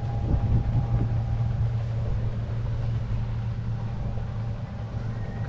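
Outboard motor of a passing pontoon boat towing a tube, a steady low drone.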